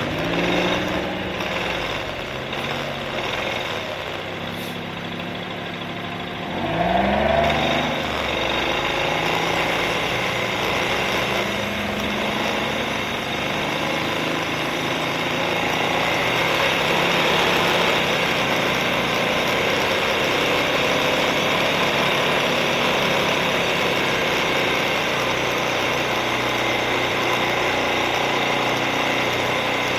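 Suzuki KingQuad ATV engine running at low revs, then revving up about seven seconds in as the quad pulls away. After that it runs steadily under a rushing road noise as it is ridden.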